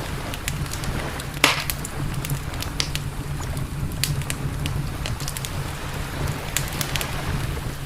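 Wood campfire crackling, with scattered sharp pops and one loud pop about one and a half seconds in, over a steady low rumble.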